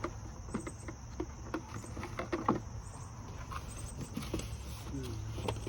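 Irregular light clicks and knocks of plastic pressure-washer parts being handled and fitted, over a steady high-pitched tone.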